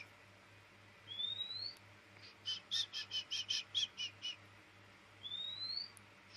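Oriental magpie-robin (kacer) singing: a rising whistle about a second in, then a quick run of about ten short repeated notes, then another rising whistle near the end.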